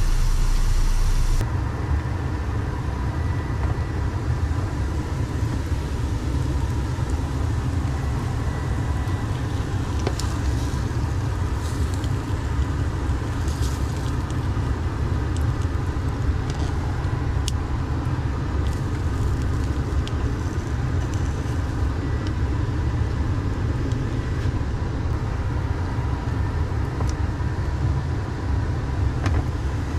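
Semi truck's diesel engine idling steadily, heard from inside the cab as a low rumble with a faint steady hum. A few faint ticks come midway.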